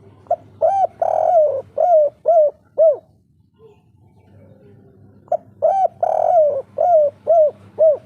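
Spotted dove (derkuku) cooing its 'kuk 3' song twice. Each phrase is a short note and a longer drawn-out coo, ending in three short 'kuk' notes.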